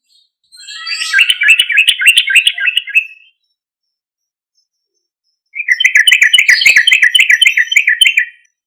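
Yellow-vented bulbul (trucukan) singing loudly in rapid bubbling phrases. There are two bursts of about three seconds each, separated by a pause of about two seconds.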